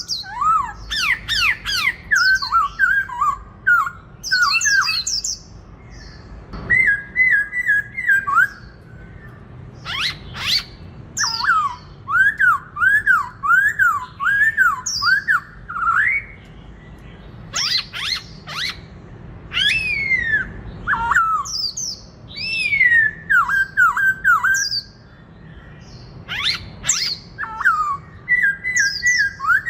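Black-throated laughingthrush singing in loud whistled phrases: runs of quickly repeated up-and-down notes mixed with sharp higher calls, broken by short pauses.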